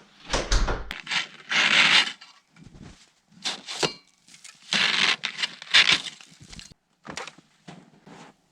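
Irregular bursts of scraping, rubbing and cracking noise, the loudest about two seconds in and again around five to six seconds in.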